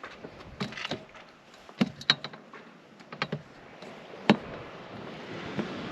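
A series of irregular sharp clicks and knocks, the loudest about four seconds in.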